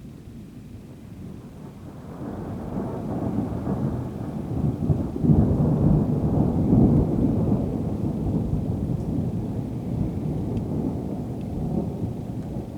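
Rolling thunder from a nearby lightning strike: a deep rumble that builds about two seconds in, peaks in the middle with a few sharper cracks, and slowly fades.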